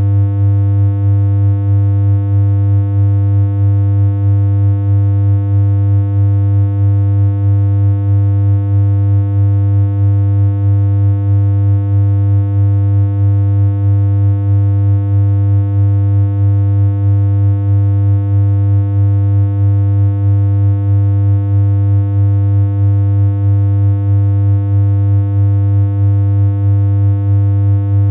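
Continuous synthesized electronic hum: one low, buzzy tone held at a constant pitch, with a slight regular pulse in loudness.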